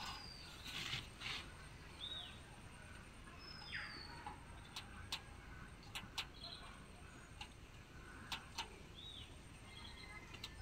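Birds calling with short chirps and whistles, now and then. Scattered sharp clicks and light taps run through it as clay terracotta tiles are handled and set in place.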